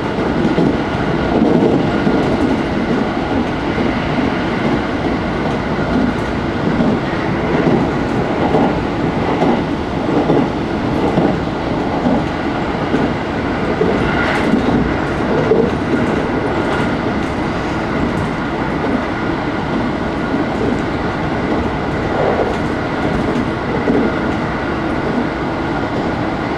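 Inside the carriage of a JR Tokaido Main Line electric commuter train running at speed: a steady rumble of wheels on rail with faint clicks and a thin, steady high tone.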